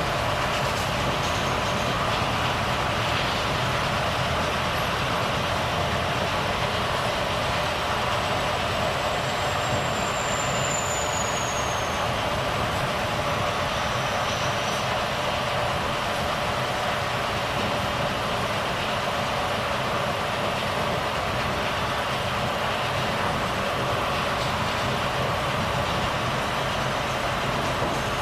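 Volvo FH truck driving along, a steady mix of engine and road noise that holds the same level throughout. A faint high whine slides down in pitch about ten seconds in.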